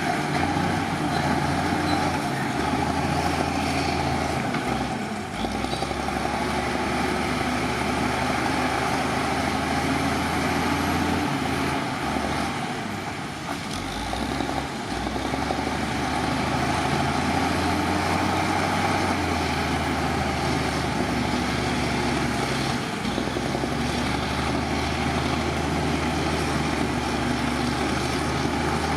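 Heavy diesel earthmoving machinery running continuously, its low engine note shifting as the load changes, with a brief lull about 13 seconds in.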